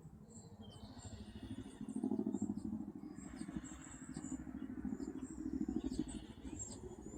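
Huey helicopter flying high overhead: a fast, pulsing rotor thud that grows louder about two seconds in.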